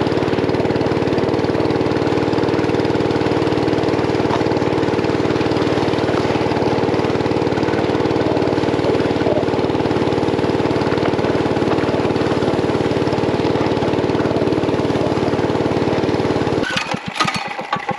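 Mini bike's small engine running steadily at a constant speed, then cutting out abruptly near the end, followed by a few seconds of irregular clattering and knocking.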